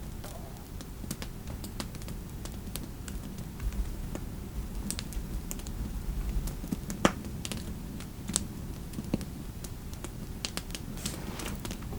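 Computer keyboard typing in scattered, irregular keystrokes over a steady low fireplace ambience.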